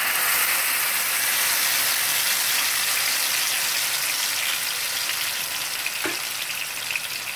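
Ground tomato, garlic and ginger paste sizzling in hot oil in a frying pan: a steady, dense hiss that eases off slightly over the seconds.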